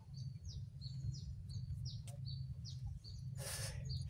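A small bird chirping repeatedly, short high notes that fall in pitch, about two or three a second, over a steady low hum. A brief rustle comes about three and a half seconds in.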